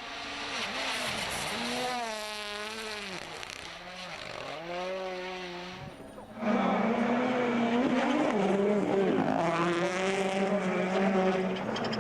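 Rally car engines revving hard, the note climbing and dropping with gear changes and lifts off the throttle. About six seconds in it cuts abruptly to a louder car holding a steadier high engine note.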